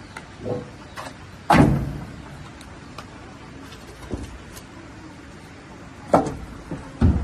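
A handful of irregular knocks and thuds, the heaviest about a second and a half in, over a steady low background.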